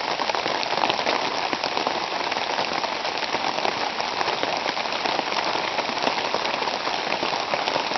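Steady rain falling, a constant hiss made of many fine drop ticks.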